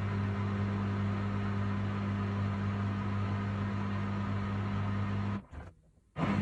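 Haier HW90-BP14636 front-loading washing machine, with a belt-driven inverter motor, running steadily with a low hum and whir. The sound cuts out suddenly for under a second about five and a half seconds in, then comes back unchanged.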